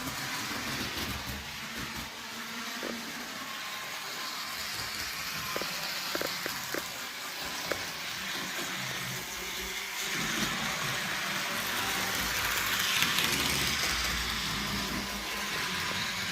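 HO scale model locomotive running on the layout's track: a steady motor-and-wheel whir with a few sharp clicks midway, typical of wheels passing over rail joints.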